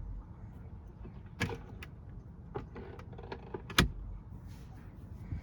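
Upper glovebox lid in a Skoda Kodiaq's dashboard being worked by hand and shut with two sharp plastic knocks, about one and a half seconds and nearly four seconds in, with lighter taps between, over a low steady hum. The glovebox's contact points have been lined with plasticine, and the owner finds the crunching and rattle gone, the lid closing much tighter.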